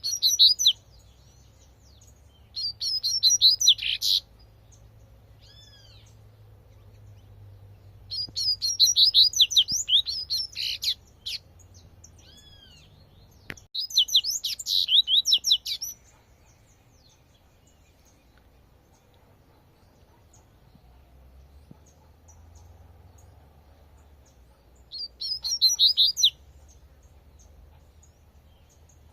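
Double-collared seedeater (coleirinho) singing its 'tui-tui' song: five bursts of rapid, high twittering phrases with pauses between them, and a couple of single arching notes in the gaps.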